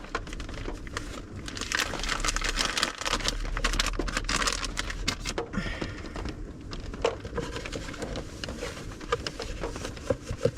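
A box being cleaned out with baby wipes: the wipes rub and scrub against it, with crinkling and rustling and many small clicks and knocks.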